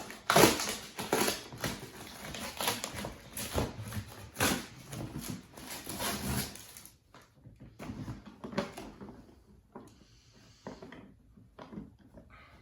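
Handling noise as animatronic parts and packaging are unpacked: irregular rustling, crinkling and light knocks, busiest for the first seven seconds, then sparser clicks and knocks.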